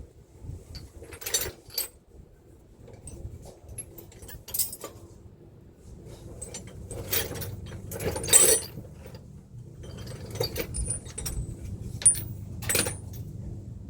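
Steel sockets and a ratchet clinking against each other and against bolts while different socket sizes are tried. There are several separate sharp clinks with a short ring, spread irregularly, the loudest about eight seconds in.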